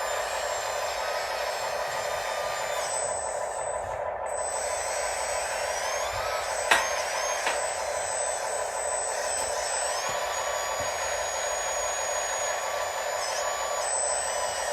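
Motors of several RC construction machines (excavators, dump trucks and a loader) running together: a steady whir with high whines that shift in pitch every few seconds as the machines move and work. A sharp knock sounds about seven seconds in, with a lighter one just after.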